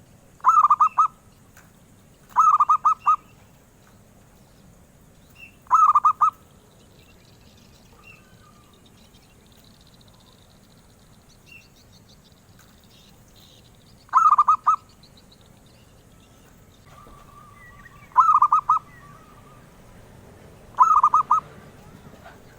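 Zebra dove (perkutut) cooing: six short phrases, each a quick run of pulsed coos. Three come in the first six seconds, then a pause of several seconds, then three more.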